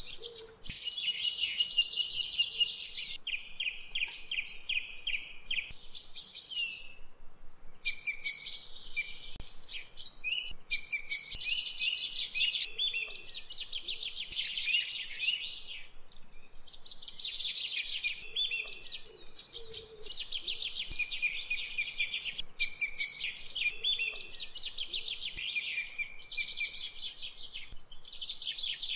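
Small songbirds singing on and on in rapid, high trills and chirps, with only brief pauses.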